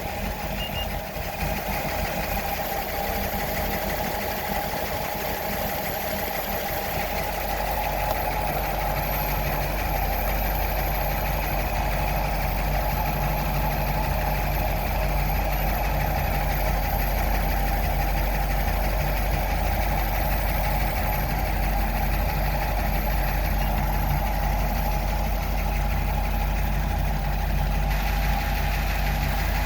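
1941 Buick Limited's straight-eight engine idling steadily, its deep low hum getting fuller about seven seconds in and then holding even.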